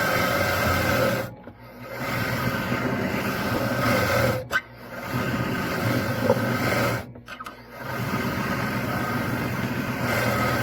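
Electric drill boring into wood with a 2-inch Forstner bit, the motor running steadily with the cutting noise, dropping away briefly three times.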